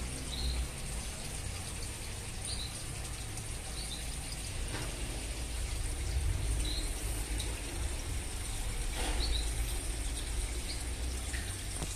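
Small birds chirping: short high chirps every second or two over a steady low rumble and a faint steady high hiss.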